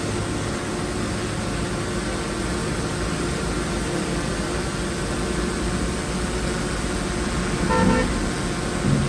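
Heavy diesel earthmoving machinery running steadily. About eight seconds in comes a short horn-like toot.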